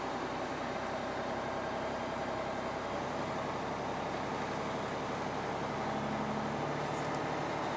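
Semi truck's diesel engine running steadily while driving on a snowy road.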